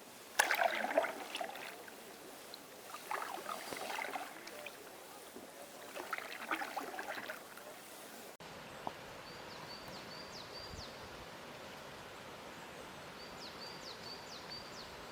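Water splashing and sloshing in a few irregular surges. Then, after a cut, a small bird repeats a short, high, upward-flicking chirp in two quick runs of about four notes each, over a steady outdoor hiss.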